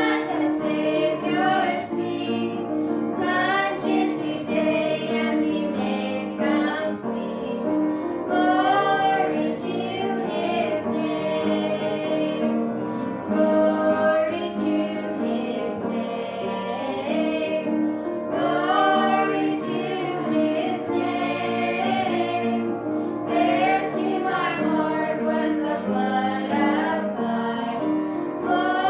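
Music: a hymn sung by female and children's voices together, with piano accompaniment.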